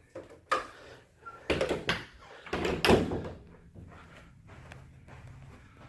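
Interior door being handled: a sharp latch click about half a second in, then two louder clattering knocks about a second apart.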